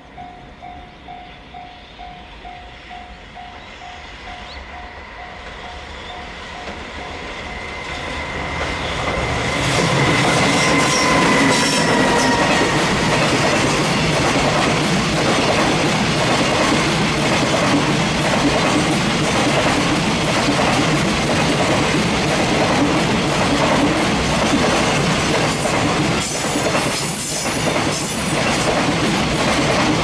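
Container freight train hauled by an EF210 electric locomotive passing close by. It grows from a distant rumble into a loud, steady rumble and clatter of container wagons over the rails, starting about a third of the way in. At the start a level-crossing warning bell dings about twice a second and fades as the train noise rises; a thin whine dipping slightly in pitch passes with the locomotive.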